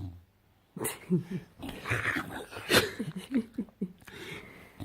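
English bulldog making a string of short, odd grumbling and whining vocalizations mixed with noisy breaths, starting about a second in.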